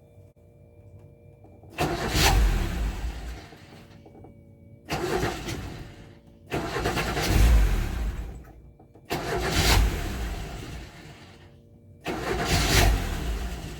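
Car engine being started five times in a row: each attempt comes on suddenly with the starter and the engine firing, then dies away within a couple of seconds, so the engine will not keep running. The owner traces this to a fuel supply hose from the gas (LPG) system that had slipped off. A faint steady hum from the electric auxiliary heater pump fills the gaps between attempts.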